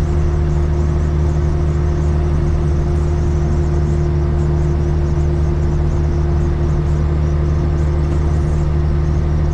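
Caterpillar 3406E inline-six diesel of a Freightliner FLD120 semi truck running steadily at highway cruise, heard from inside the cab as an even, unchanging low drone.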